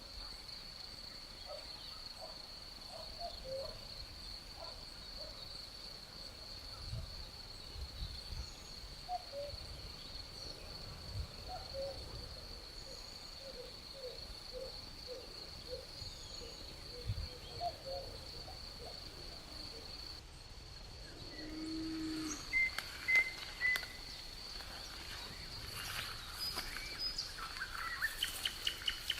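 Nature ambience: a steady, high insect trill like crickets runs throughout, with scattered short, low chirping calls from other animals. A brief lower call comes about two-thirds of the way in, and a few clicks and higher chirps follow near the end.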